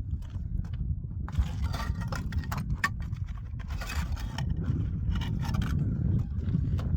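Irregular scraping of something rough against a surface over a steady low rumble. The scraping starts about a second in.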